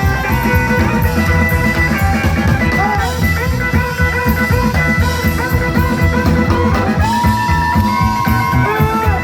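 Rockabilly band playing live: a lead guitar line with bent notes over a driving drum kit and bass.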